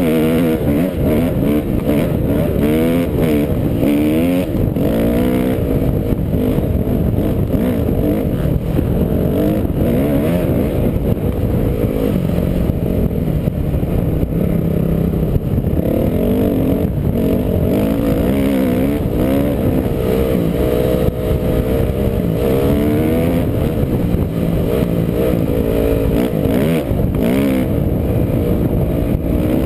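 Off-road vehicle engine running while riding, its pitch rising and falling over and over as it speeds up and eases off.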